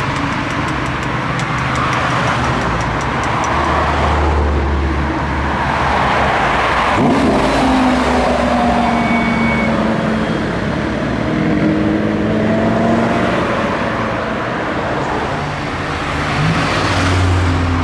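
Car engines running and moving off, their pitch shifting as they rev and change speed, with a rise in revs near the end. A fast run of faint ticks sits over the first few seconds.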